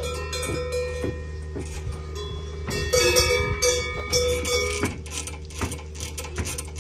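Several cowbells clanking irregularly at different pitches, each strike ringing on, over a steady low hum. The clanking grows louder and busier about three seconds in.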